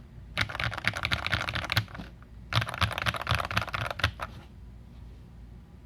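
Typing on a Feker IK75 mechanical keyboard fitted with lubed Akko Rose Red linear switches, PBT keycaps and an aluminium plate with foam mods. The keystrokes come in two quick bursts with a short pause between, and the typing stops about two-thirds of the way in.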